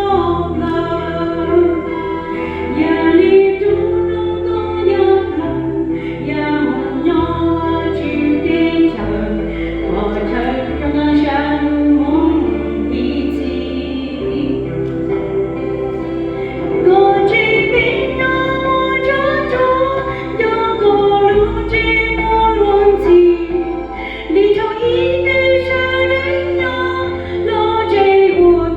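A church group singing a hymn together, women's voices prominent, over a steady low accompaniment whose notes change every second or two.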